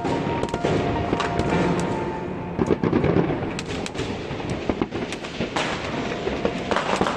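Many fireworks going off across the city: a dense, irregular string of bangs and crackles. Music plays under them for the first couple of seconds.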